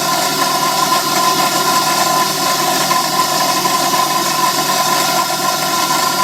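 A motor-driven workshop machine running steadily, with a constant whine over a hiss and no change in speed.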